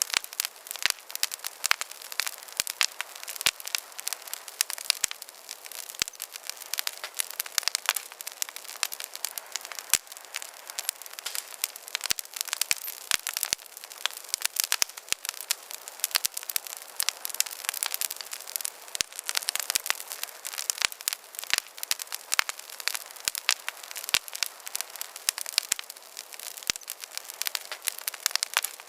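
Small campfire crackling: a dense run of irregular sharp pops and snaps over a steady hiss.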